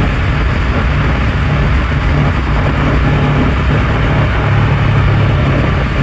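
Honda NX500's 471 cc parallel-twin engine running at a steady pitch under a steady rushing noise.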